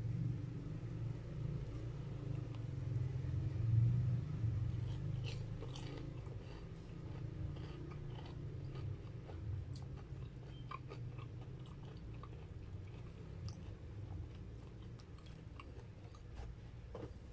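Close-up biting and chewing of crumb-coated deep-fried corn dogs, with scattered short crisp crunches from the breaded crust. A steady low hum runs underneath.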